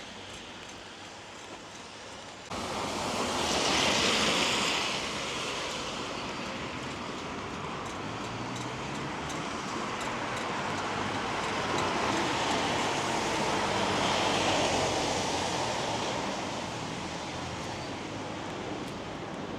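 Wet-street ambience: a steady hiss of rain and wet road, with vehicle tyres hissing on the wet road. The noise jumps up abruptly a couple of seconds in, then swells twice as vehicles pass, the second time more slowly.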